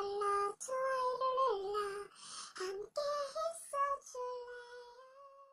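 A high voice singing a short melody, holding notes that step up and down in pitch, fading out near the end.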